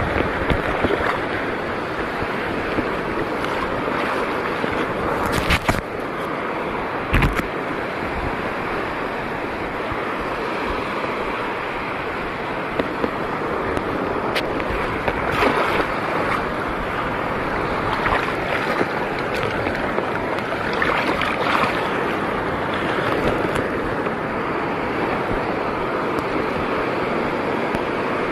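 Steady rush of sea water with wind on the microphone, broken by a few sharp knocks, the loudest about five and seven seconds in.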